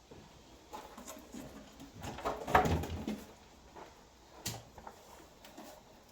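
Scattered scrapes and knocks of a screwdriver being pushed through sound-deadening material at the bolt holes, with a busier patch a little before the middle and one sharp click later on.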